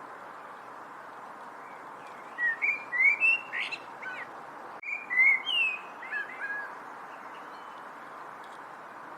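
A bird singing two short phrases of sliding, whistled notes, about two and five seconds in, over a steady background hiss.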